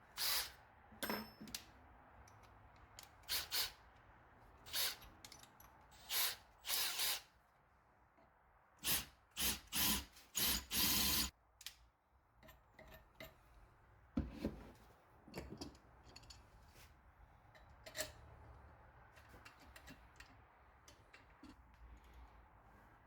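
Power drill run in short bursts, drilling old leftover material out of metal shock mounting brackets, about one burst a second with the longest near the middle; after that only light clicks and taps.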